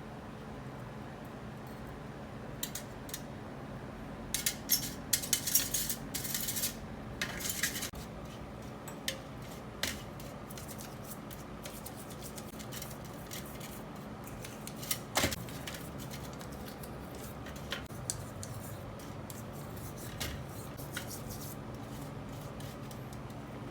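Small metal engine parts being handled, clinking and scraping against each other and a hard surface. There is a busy run of scraping and clinks from about four to eight seconds in, a sharp knock a little past the middle, and scattered light clicks over a faint steady hum.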